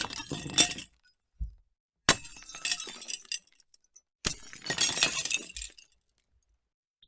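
Glass smashing: the tail of one break with shards tinkling, then two separate smashes about two seconds apart, each a sudden crash followed by about a second of pieces clinking and settling. A short low thud comes between the first and second.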